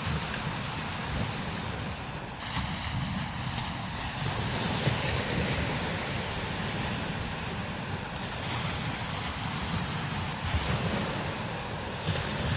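Strong desert wind blowing over sand dunes, a steady hissing rush that swells about four seconds in, eases, and gusts up again near the end, with low rumbling buffeting of the microphone throughout.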